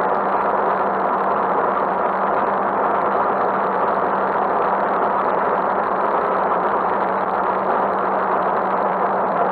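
Motorcycle running at a steady speed, engine hum under steady wind and road noise on a handlebar-mounted camera's microphone.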